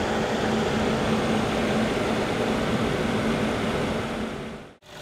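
Mercedes-Benz GLS550's 4.7 L twin-turbo V8 idling, heard at the front grille as a steady, noisy mechanical hum. It cuts off suddenly near the end.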